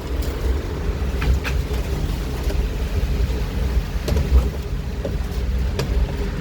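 Strong wind in a heavy rainstorm buffeting the microphone as a deep, steady rumble, with a rushing hiss of rain and scattered sharp ticks from drops or debris hitting nearby.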